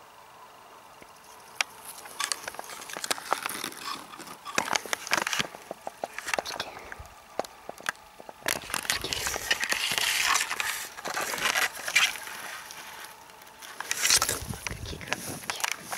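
Rustling and crackling of grass and plant stems being pushed aside and trodden, with many small snaps, busiest about halfway through and again near the end.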